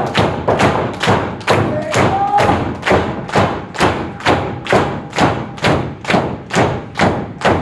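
Steady rhythmic thumps, about two a second, with faint voices underneath.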